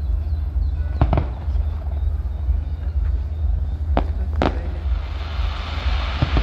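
Fireworks going off: a quick double bang about a second in, two more bangs around four seconds and another near the end, with a hissing noise swelling after about five seconds, all over a steady low rumble.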